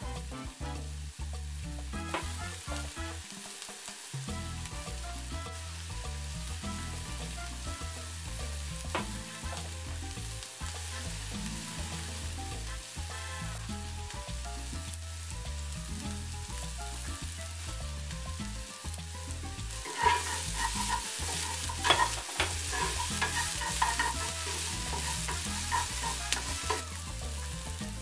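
Diced onions sizzling in hot oil in a nonstick frying pan, with a spatula stirring and clacking against the pan. The sizzle grows louder and busier about two-thirds of the way in.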